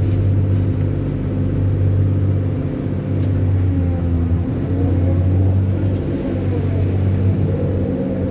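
Heavy vehicle engine running steadily, with a fainter higher tone rising and falling in waves. The vehicles are struggling to climb slippery, rain-soaked mud.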